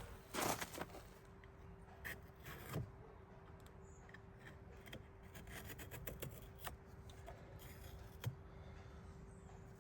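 Faint handling noises: scattered clicks, rubs and scrapes as the top of a bottle of chainsaw chain oil is opened, likely cut with a knife. A low steady hum runs underneath.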